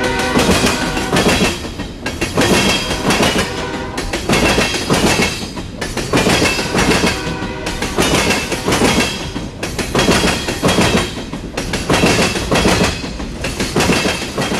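Freight train of Tropicana boxcars rolling past close by, its wheels clattering over the rail joints. The clatter swells and dips about every two seconds as each car goes by.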